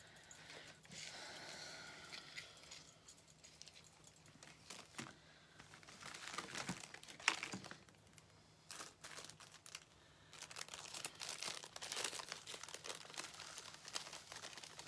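Faint, irregular crinkling and rustling of craft materials being handled, with scattered small clicks.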